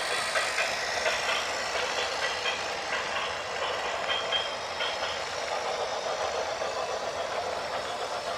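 Heavy vehicle engine running steadily, with faint clicks and rattles and a brief high beep about four seconds in.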